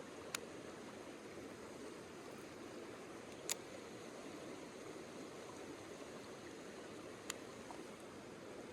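Mountain stream water running steadily, with three short sharp clicks spread through it.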